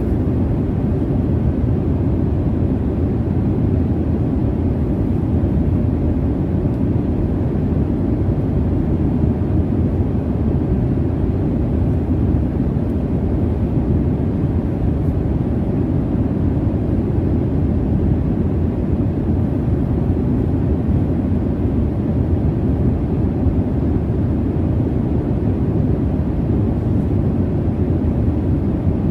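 Steady low rumble of jet engines and airflow heard inside an airliner cabin in flight, an even noise with no changes.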